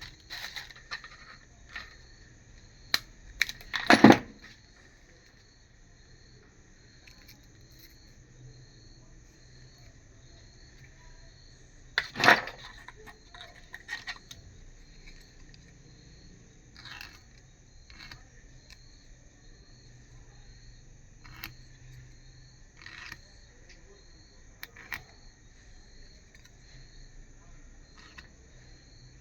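Scattered sharp clicks and knocks of small hard objects being handled, loudest about four seconds in and again around twelve seconds. Under them runs a steady cricket-like chirping that pulses about twice a second.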